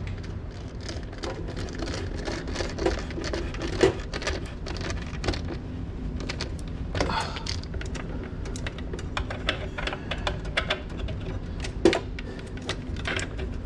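Hands working at the wire connections inside an Aprilaire steam humidifier: irregular light clicks and taps, a couple of them sharper, over a steady low hum.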